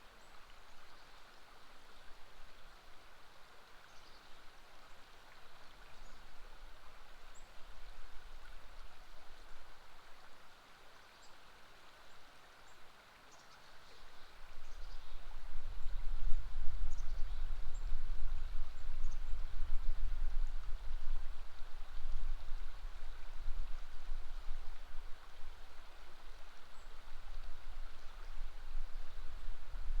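River water flowing steadily, with a few faint high bird chirps. About halfway through, a low rumble sets in and becomes the loudest sound.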